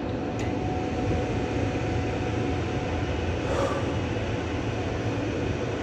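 Furnace or HVAC equipment running with a steady hum and rush of air, with a faint click about half a second in.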